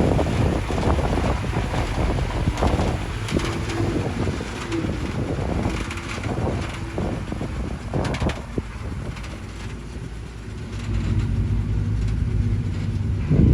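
Diesel engine of heavy earthmoving machinery running with a steady low hum, overlaid by scattered knocks and crackles for the first several seconds. The engine note grows firmer about eleven seconds in, and a sharp knock lands at the very end.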